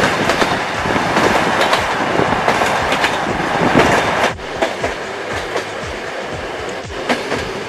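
Trans-Mongolian passenger train running, its wheels clicking and rattling over the rails with a dense running noise. About four seconds in, the sound drops in level and settles to a steadier, quieter run with a faint hum underneath.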